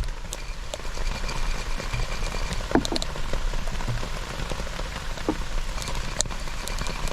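Steady rush of water, with scattered small drips and ticks and a low rumble beneath.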